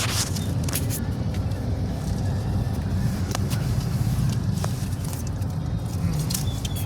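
Steady low rumble of motor vehicles, with a few short clicks.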